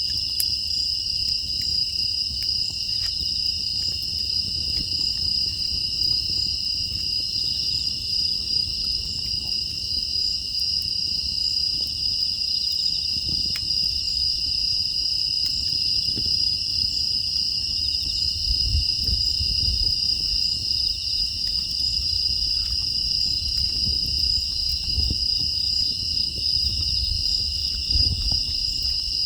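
A steady chorus of crickets and other field insects trilling continuously in high, unbroken tones, over a low rumble that swells twice in the second half.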